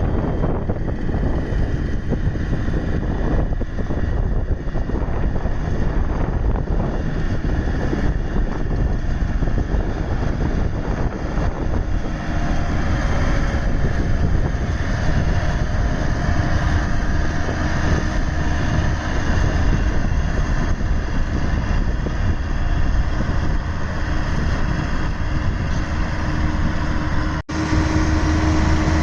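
Road roller engine running steadily. The sound cuts out for an instant near the end, then carries on as a steadier hum.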